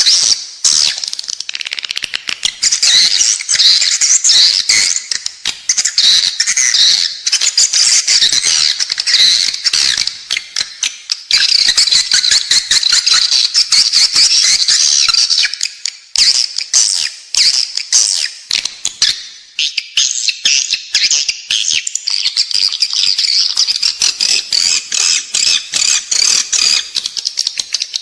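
Edible-nest swiftlets twittering: a dense, continuous chatter of rapid high chirps. This is the indoor lure call played in swiftlet houses to draw the birds in to nest.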